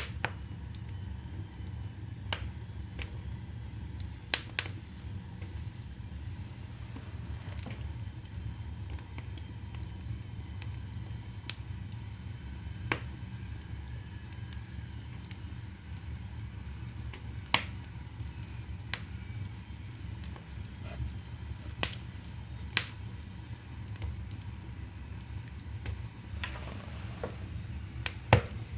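Oak firewood burning in the open firebox of a wood-fired boiler, with the air fan switched off: irregular crackling and sharp pops, a few louder ones, over a steady low rumble.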